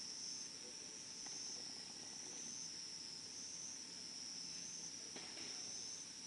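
Steady high-pitched insect chorus trilling, gently swelling and fading, with two faint pops from the burning-down campfire, about a second in and near the end.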